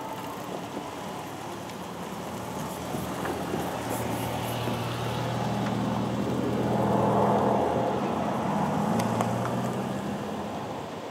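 A train passing by: a rumble with a steady low drone that builds, is loudest about seven seconds in, then fades away.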